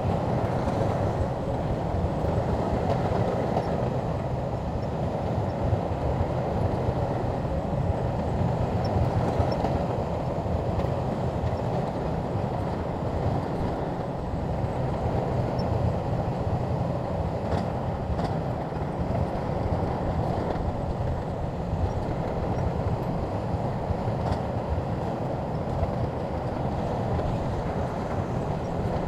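Shantui crawler bulldozer working: its diesel engine running steadily under load, with the rumble and clatter of its steel tracks.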